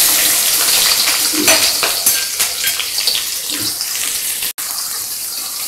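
Sliced garlic and chopped small onions sizzling in hot sesame (gingerly) oil in a steel kadai, with scattered crackles. The hiss is strongest just after they go in and eases a little toward the end.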